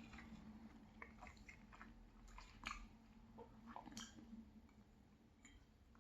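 Faint chewing of a fried cheese pancake: soft, scattered mouth clicks and smacks, with two slightly louder ones a few seconds in.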